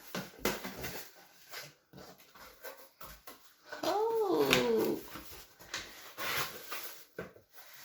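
A drawn-out whining call about four seconds in, its pitch rising, falling and rising again, with scattered clicks and rustling around it.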